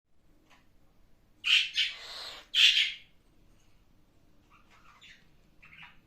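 Cockatiel squawking: a burst of loud calls about a second and a half in, then a few fainter calls near the end.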